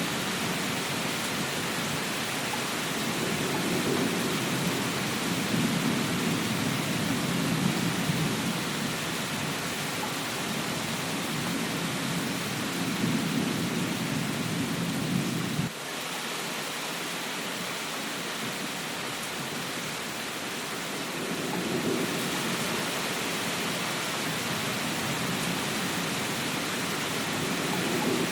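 Steady rain hiss with a low rolling rumble of thunder. The rumble cuts off abruptly about halfway through, leaving only the rain, and rolls back in near the end.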